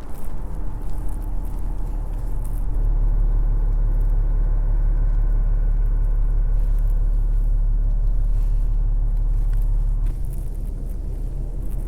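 Low, steady rumble of road traffic, growing louder about three seconds in and easing off near the end.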